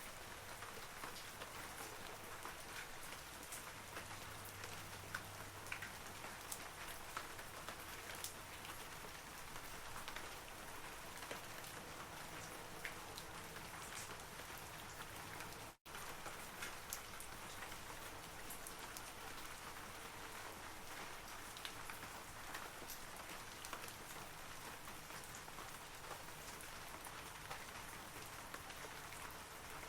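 Steady rain falling on forest trees: an even hiss scattered with many small droplet ticks. The sound drops out for a split second about halfway through.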